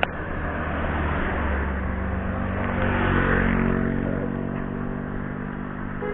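A motor vehicle's engine going past on the road, growing to its loudest about three seconds in and then fading, over a low wind rumble on the microphone.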